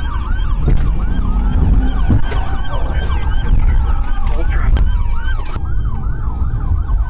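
Police car siren in fast yelp mode, rising and falling about three times a second, over the heavy low rumble of a vehicle driving in pursuit.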